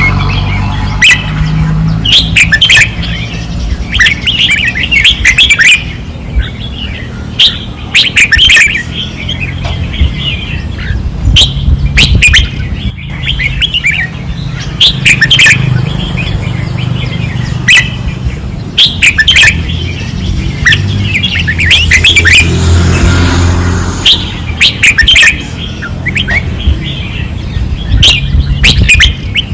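Red-whiskered bulbuls singing intensely in short, loud, repeated phrases, the songs overlapping one another, over a low steady hum.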